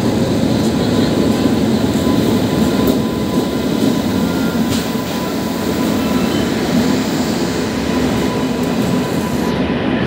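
Express passenger train's coaches rolling past close by, a steady loud rumble of wheels on rail, with a thin steady whine over it.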